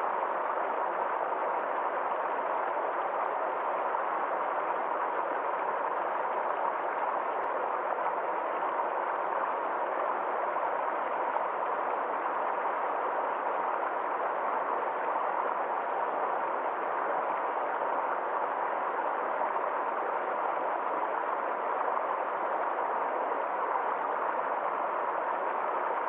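Small forest stream flowing: a steady, even rush of running water with no changes, dull with no high hiss.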